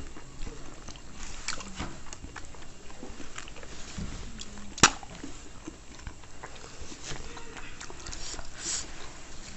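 Eating sounds: chewing and mouth noises, with scattered small clicks and one sharp click about halfway through.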